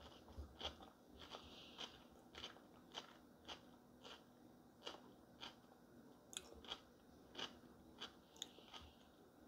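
A person chewing a mouthful of food with the mouth closed: faint, soft clicks about twice a second.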